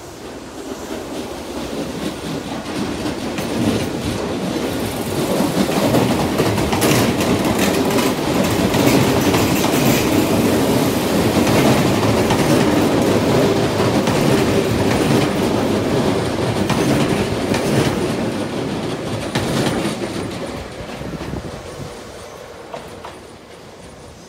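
Tobu Railway 200/250 series limited-express electric train running past along a station platform, its wheels clacking over the rail joints. The noise builds over the first several seconds, is loudest in the middle and fades away over the last few as the train recedes.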